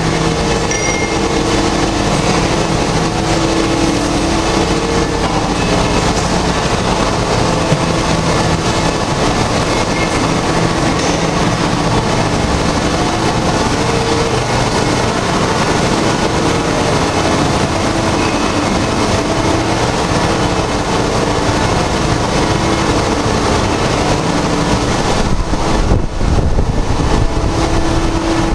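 Machine-shop machinery running: a steady, loud mechanical din with humming tones that come and go, shifting slightly near the end.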